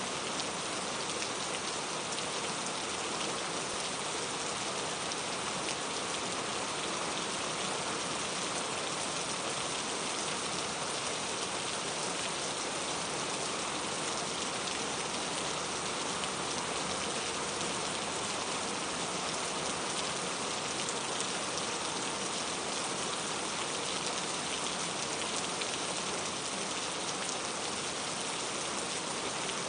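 Steady rain falling, a dense even hiss of many drops spattering on a surface, unchanging throughout.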